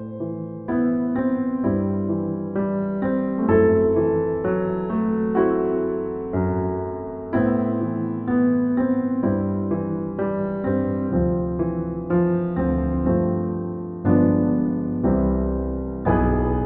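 Slow, gentle solo piano music, notes struck one after another and left to ring and fade.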